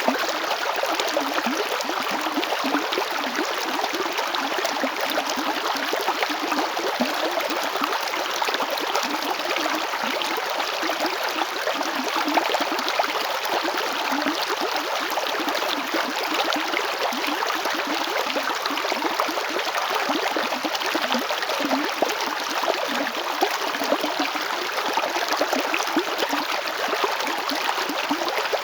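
A river flowing steadily over rocks, a continuous rush of running water flecked with small gurgles and splashes.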